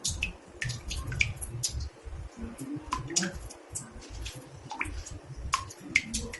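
Water drops falling into a bathtub: irregular bright plinks and splats, about three a second, over a low rumble.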